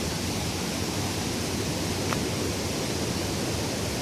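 Steady rushing of falling water from the Coban Pelangi waterfall, an even, unbroken noise.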